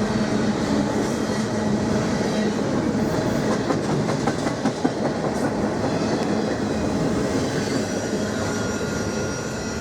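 Canadian National intermodal freight train's cars rolling past: a steady rumble of steel wheels on the rails, with clicks as the wheels cross the rail joints.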